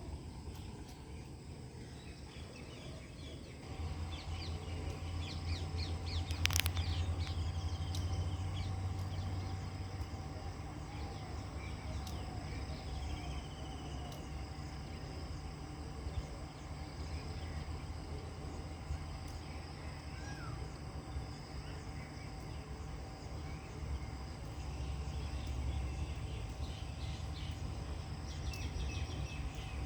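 Birds calling and chirping in open farmland, over a steady high insect-like whine. A steady low hum with a faint steady tone joins in about four seconds in, and there is one sharp click a couple of seconds later.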